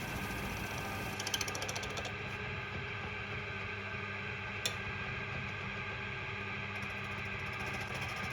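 A 6-inch bench grinder running with a steady motor hum, with a short rattling stretch about a second in and a single click near the middle.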